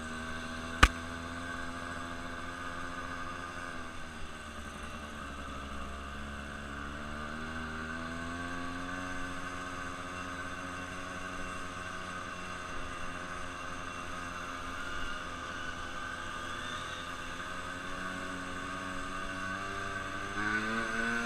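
Motorboat engine running steadily, its pitch drifting slowly up and down. A single sharp click comes about a second in.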